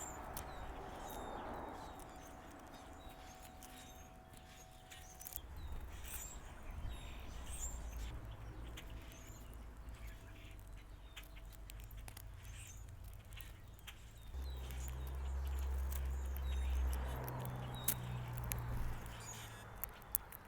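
Small backyard songbirds giving short, high chirps and call notes, scattered throughout. Underneath is a low, steady rumble of a distant engine or traffic, which grows louder about two-thirds of the way through.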